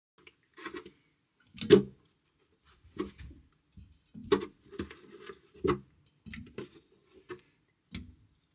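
Irregular knocks, clunks and rubbing of things being handled, the loudest knock about two seconds in.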